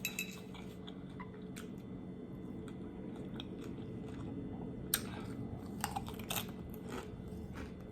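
Close-miked chewing of fish and tofu tacos, with scattered sharp crunches and mouth clicks over a faint steady hum.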